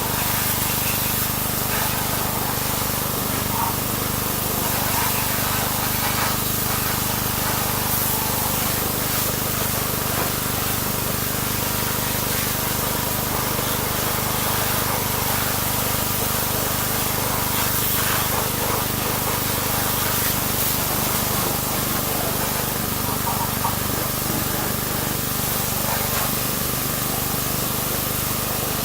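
Pressure washer spraying steadily, its hiss running over the constant hum of its pump motor.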